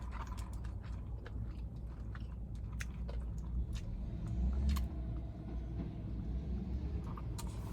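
Close-up chewing and biting of crispy fried chicken, with scattered wet clicks and crunches, over a steady low rumble.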